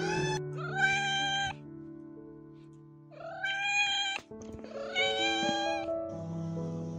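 Domestic cat meowing: three long meows, each rising at the start and then held for about a second, with a short rising call just before them. Background music with held notes plays underneath.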